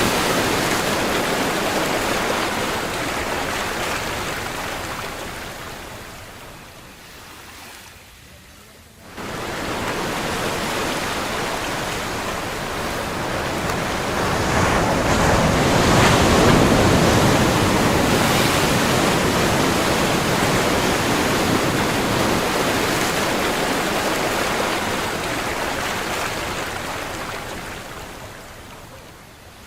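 Ocean surf: a steady rush of breaking waves that swells and ebbs. It dies down about seven seconds in, comes back suddenly a couple of seconds later, builds to its loudest around the middle and slowly fades near the end.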